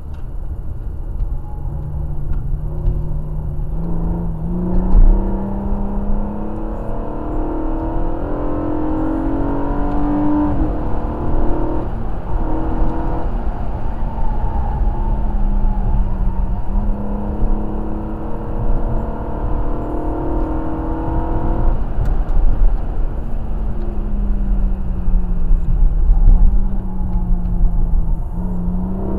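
Car engine heard from inside the cabin while being driven hard around a racetrack, its pitch climbing under acceleration and dropping sharply, several times, over a steady low road rumble.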